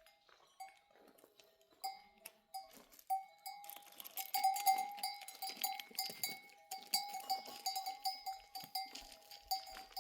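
Metal neck bells on a grazing flock of livestock clanking irregularly, sparse at first and busier from about four seconds in.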